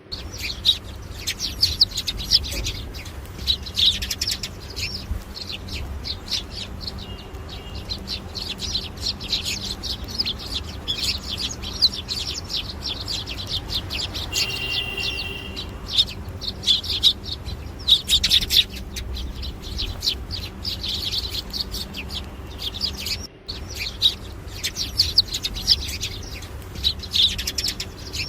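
Many small songbirds chirping and chattering continuously, with rapid overlapping calls throughout and a short whistled note about halfway through. A faint steady low hum runs underneath.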